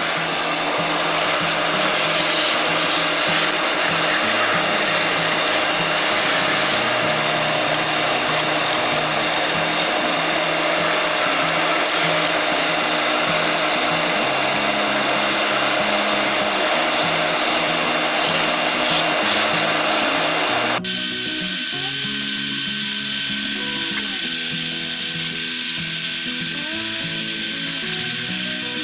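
Background music over a loud, steady hissing noise from a tool at work, which cuts off suddenly about 21 seconds in; a fainter hiss goes on under the music after that.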